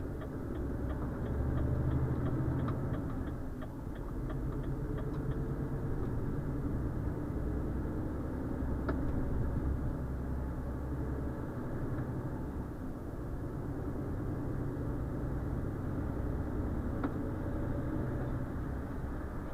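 Renault Trucks T520's diesel engine and road noise heard from inside the cab, a steady low rumble. A run of light, evenly spaced ticks sounds in the first few seconds.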